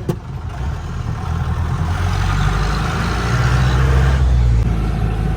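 A sharp knock just after the start, then a Mahindra 4x4 jeep's engine pulling away, growing louder as it accelerates and changing note about four seconds in.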